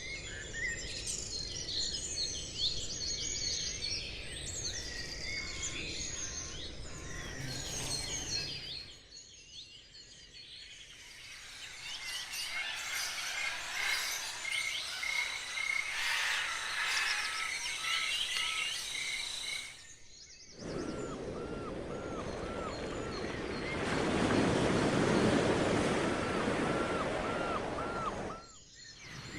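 Several wild birds singing and calling, with many short chirps and whistles over a steady outdoor noise. The sound changes abruptly a few times, as if separate recordings were cut together. About two-thirds of the way through, one bird repeats a short rising-and-falling note several times in a row.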